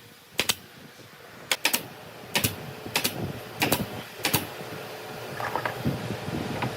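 A series of about seven sharp knocks, spaced roughly half a second to a second apart, followed by a steady hum that builds up near the end.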